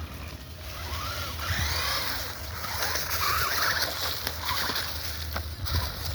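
Small electric motor of an RC crawler truck whining up and down in pitch as it is driven, joined by a rushing, splashing noise, over a steady low rumble of wind on the microphone.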